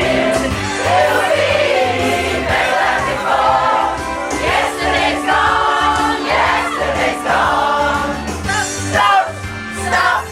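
A pop choir singing a song together over instrumental backing with a steady, repeating bass line.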